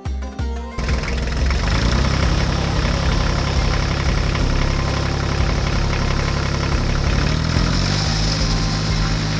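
Tractor engine running steadily at idle, its pitch rising a little near the end as it revs up. A few notes of music end just before it starts.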